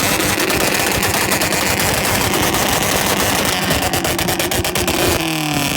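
A rapid, rattling string of sharp pops over a loud noisy bed, densest in the latter half. Just before the end it gives way to an engine's falling revs.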